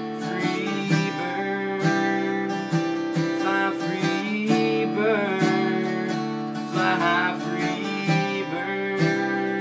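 Acoustic guitar strummed in a steady country rhythm, the instrumental close of a song after the last sung line.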